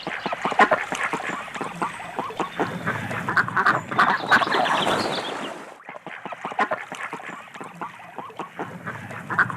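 Ducks quacking, many short calls in quick succession, with a brief lull about six seconds in.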